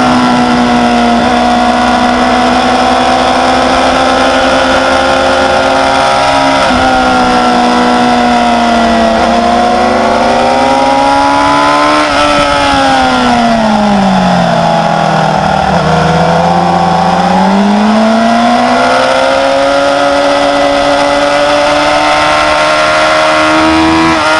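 Sportbike engine running hard on a race track, its pitch held high, with a brief drop about six seconds in, then a long fall as the bike slows for a corner around the middle before it climbs again under throttle.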